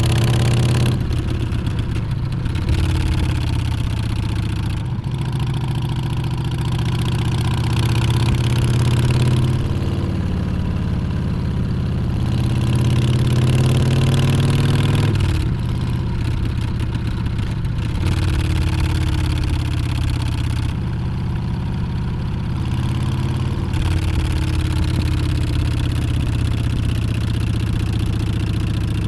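Harley-Davidson Street Bob's Milwaukee-Eight 114 V-twin engine running under way, its pitch climbing several times as the throttle opens and dropping back between, with wind rush over the microphone.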